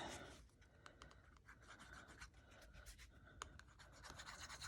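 Faint scratching and rubbing of glue being spread onto paper, with a few light ticks of paper being handled.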